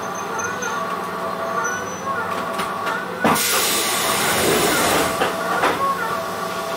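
Running noise heard inside a Hokuso 7800 series commuter car (Toyo GTO-VVVF inverter drive) in a subway tunnel: a steady mix of motor tones and wheel-on-rail noise. About halfway through, a sudden loud hissing rush starts and lasts a couple of seconds.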